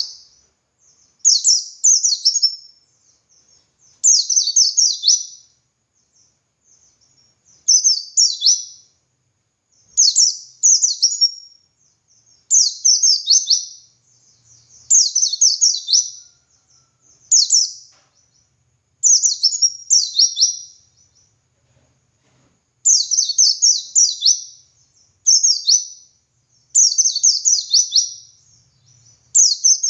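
Pleci dakun (white-eye) singing in its full 'ngalas' style: short, high, rapid phrases of sharp falling notes, repeated one every second or two.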